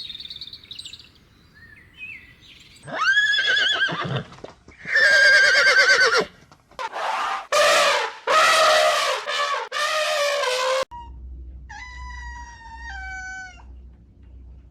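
A string of separate animal calls edited one after another: a wavering call about three seconds in, a louder one about five seconds in, a run of loud calls from about seven to eleven seconds, then a steadier stepped call near the end.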